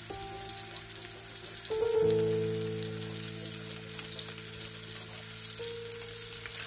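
Minced-meat patties sizzling as they fry in hot oil in a pan, a steady crackling hiss, with background music of long held notes that change pitch a few times.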